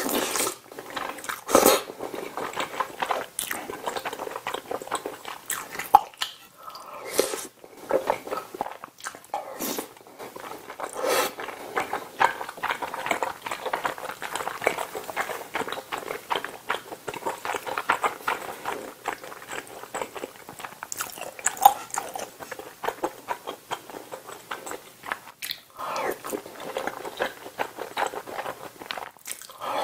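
Close-miked chewing of a mouthful of spicy tteokbokki: a dense run of small wet mouth clicks, with a few louder bites.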